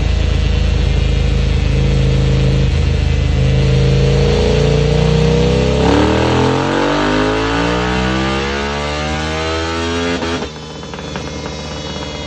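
KTM 890 Duke R parallel-twin engine, through a full Akrapovic exhaust with the dB killer fitted, pulling on a dyno. It runs at low revs, then about six seconds in the revs climb steeply through the range on a wide-open-throttle run. The throttle snaps shut about ten seconds in and the engine drops off.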